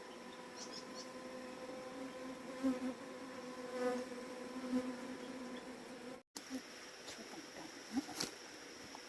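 Bees buzzing in a steady drone that swells louder several times. About two-thirds of the way through the sound cuts out for an instant, and after that a thin high insect tone runs underneath, with a sharp tick near the end.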